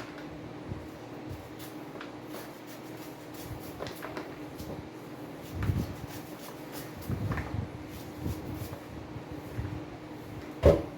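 Knife cutting kernels off ears of fresh corn: repeated short scraping strokes and light knocks against the cob and bowl, with a few heavier thuds, the loudest near the end.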